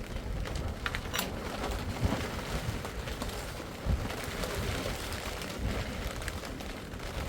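Rain falling steadily, with a few scattered light clicks and knocks.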